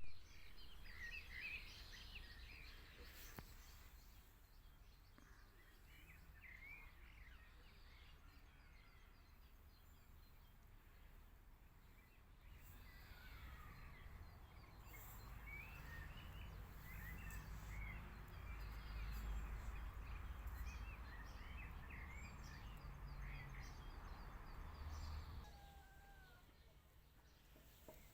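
Several small birds singing and chirping faintly, many short warbling calls overlapping, over a low rumble that builds through the middle and fades away near the end.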